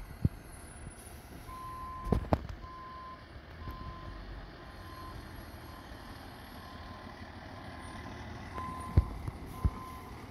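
Fire truck's backup alarm beeping about once a second over the low, steady running of its engine. A few sharp knocks stand out, the loudest near two seconds in and near the end.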